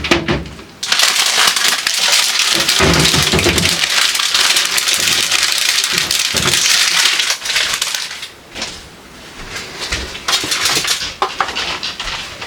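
Kitchen tap running, water splashing into the sink: a steady rush that stops about two-thirds of the way through, followed by softer handling noises.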